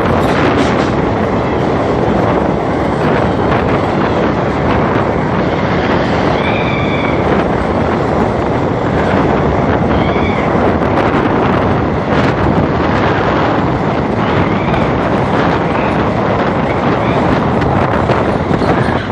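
Wind buffeting the microphone over the steady running noise of a moving train, with a few faint, short high whines.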